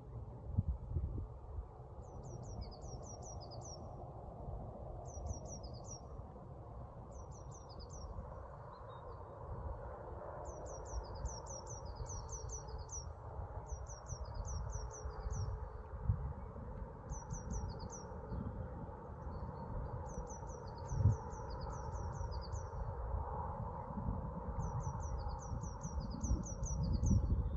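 A songbird singing short phrases of four to six quick, high, downward-sweeping notes, repeated every second or two, over a low rumble.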